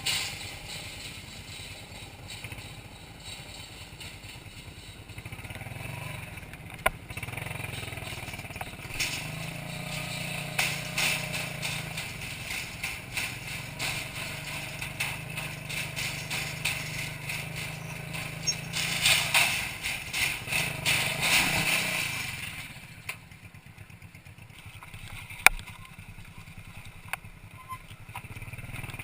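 Minsk 125cc single-cylinder two-stroke motorcycle running along with rattling and clatter, louder around two-thirds of the way in. The engine sound drops away a little past the middle-to-late part, leaving quieter background with a single sharp click.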